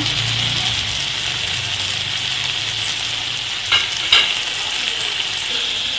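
Chicken pieces sizzling steadily in oil in an aluminium kadai, frying dry now that the added water has cooked off. Two light knocks come about four seconds in.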